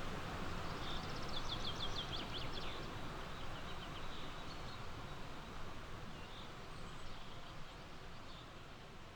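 A songbird sings a quick run of about ten high, down-slurred notes about a second in, with a few single short chirps after it, over a steady outdoor rush of background noise that gradually fades.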